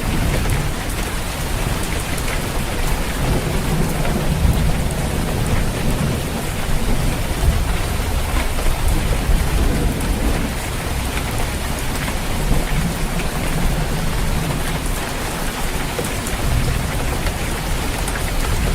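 Steady rain pattering on a roof, with low rolling thunder rumbling underneath and swelling several times.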